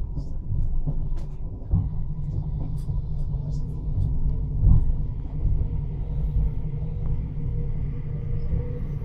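Steady low rumble of an S-train running along its track, heard from inside the carriage, with a faint steady whine and a couple of short knocks.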